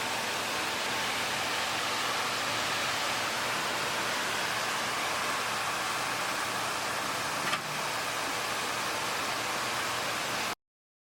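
Automatic carpet washing machine running with water spraying on the carpet: a steady hiss like rain, with one short click about seven and a half seconds in. The sound cuts off abruptly near the end.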